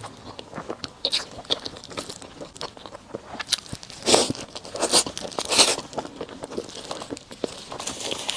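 Close-miked eating: bites and crunchy chewing, with irregular sharp clicks and a few louder crunches about four to six seconds in.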